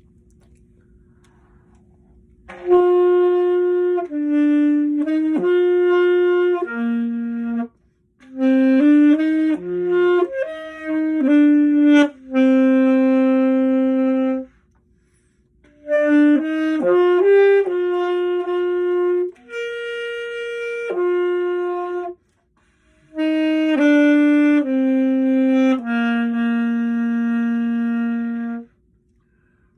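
Solo saxophone playing a slow melody of held notes in four phrases, with short breaths or rests between them. The first notes come about two and a half seconds in.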